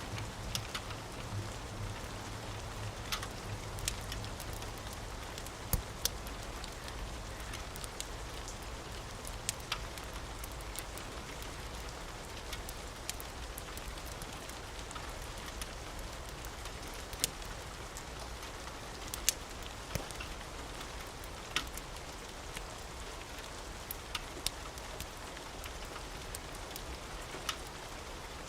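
Steady rain hiss mixed with the sharp pops and crackles of a wood fire in a fireplace, one every second or two. A low rumble fades away in the first few seconds.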